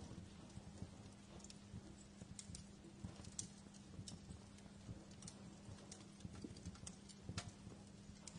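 Wood fire in a fireplace crackling softly, with irregular small pops and snaps over a faint hiss, and a stronger pop near the end. A faint steady low hum runs underneath.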